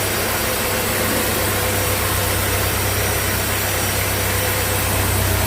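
Sawmill machinery running steadily: a constant low engine-like hum under an even hiss, with no cuts or knocks.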